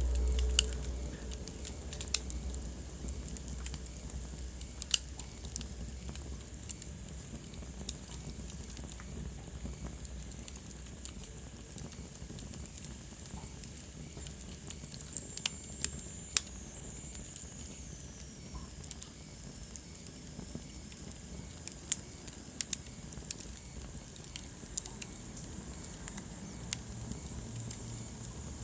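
Wood fire burning in a fireplace, with irregular sharp crackles and pops over a steady soft hiss. A low rumble fades out over the first few seconds, and a faint high whistle slides down in pitch about halfway through.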